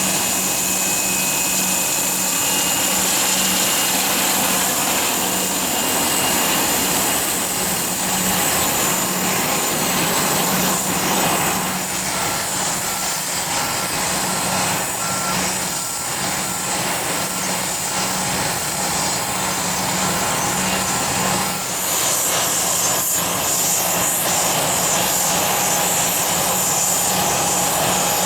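Jet engines running with a steady high-pitched whine and rushing noise. From about twelve seconds in, a ground vehicle's reversing beeper sounds roughly once a second.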